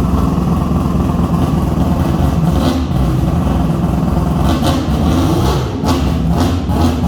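Peripheral-ported 3.9 L six-rotor rotary engine running steadily at low revs. A few short, sharp cracks cut through it in the second half.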